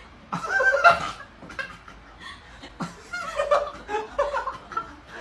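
A person laughing in short bursts of chuckles and snickers.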